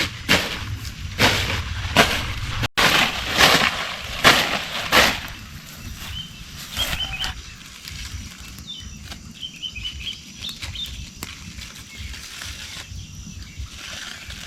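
A run of rhythmic swishing, rustling strokes, about one every 0.7 s, for the first five seconds. Then the strokes die down to quieter rustles, with birds chirping faintly.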